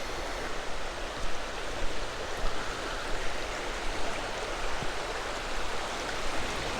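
Creek water running steadily, an even rushing sound, with a few soft bumps from handling or steps in the first half.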